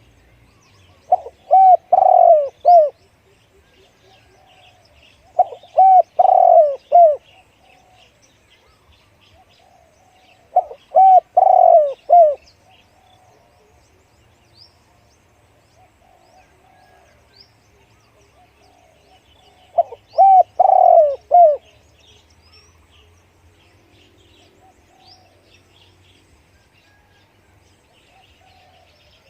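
Spotted dove cooing: four phrases of several deep coos each, spaced a few seconds apart. Faint chirps of small birds sound in between.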